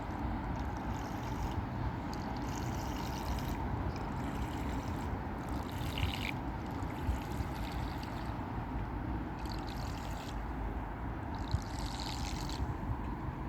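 Toy RC fire boat running on the water: steady low rumble with a faint steady tone, and water splashing and trickling in short irregular bursts.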